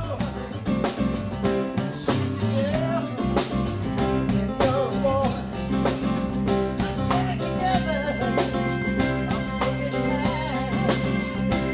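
Live band playing a rock song: a drum kit keeps a steady beat under bass and guitar, with a lead melody bending in pitch above, and held high notes joining about two-thirds of the way through.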